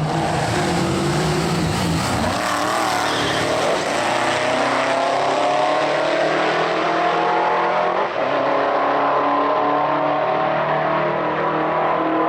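Race car engine under full throttle, its pitch climbing steadily as it pulls through a gear. About eight seconds in, a brief dip marks a gear change, and then the pitch climbs again.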